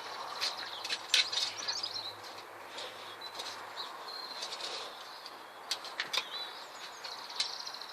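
Small birds chirping and singing, with scattered sharp clicks and scrapes over a light outdoor background.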